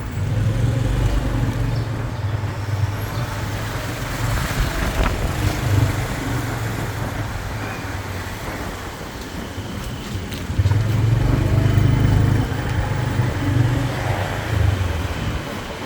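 Motorbike engine running while riding along a city street, with road and traffic noise. The engine hum gets louder about ten and a half seconds in.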